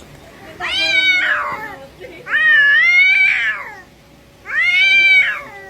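A cat yowling in three drawn-out calls, each about a second long, rising and then falling in pitch. These are the long, threatening yowls of a cat squaring off for a fight.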